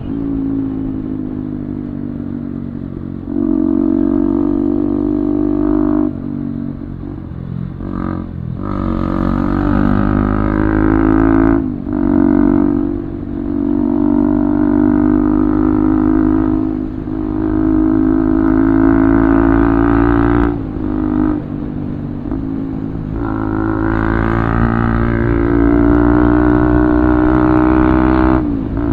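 Motorcycle single-cylinder engine through an Akrapovic full-system aftermarket exhaust, running steadily in long stretches with a brief drop in the sound every few seconds.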